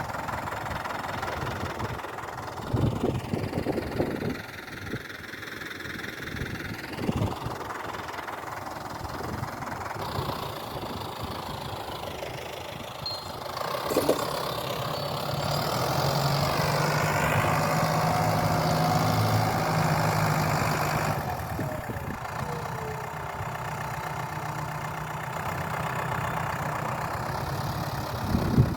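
An engine running, with a few clunks in the first half; about halfway through it speeds up and runs louder for several seconds, then slows back down with a falling pitch.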